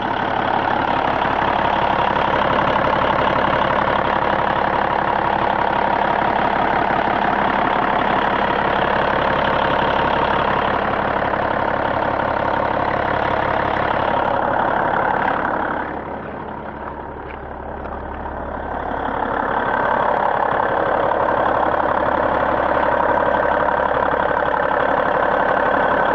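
2004 Peterbilt 379L's 475-horsepower Caterpillar single-turbo diesel engine idling steadily, its firing pulses plain. It drops quieter for a few seconds about two-thirds of the way through, then comes back up to the same steady idle.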